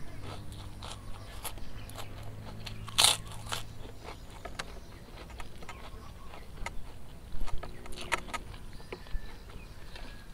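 Close-miked chewing of a large mouthful of rice and fried food eaten by hand, with sharp crunches about three seconds in and again around eight seconds.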